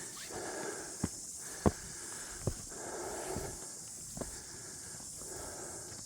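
Footsteps crunching through leaf litter on a bush track, with a few sharp twig snaps, over a steady high-pitched hiss.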